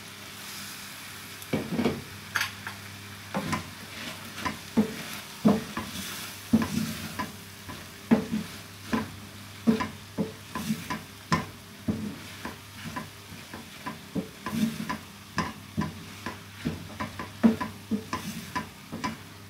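Spoon stirring and mashing potatoes in a cooking pan, knocking and scraping against the pan about twice a second from about a second and a half in, over a steady low hum.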